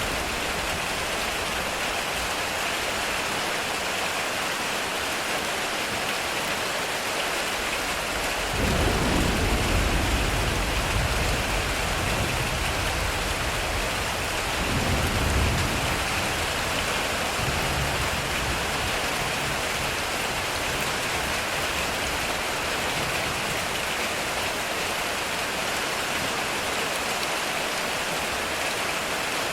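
Heavy rain drumming steadily on a metal roof, with thunder rumbling twice: once about a third of the way in and again about halfway, both fading out.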